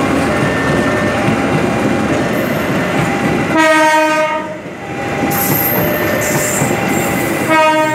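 KAI passenger train's coaches rumbling and clattering past over the rails. The train's horn blows twice, once about halfway through and again, more briefly, near the end.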